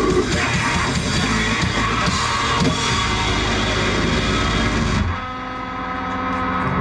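Loud live heavy rock band, with distorted electric guitar and drum kit, playing the end of a song. The band stops abruptly about five seconds in, leaving a steady amplified guitar tone ringing on.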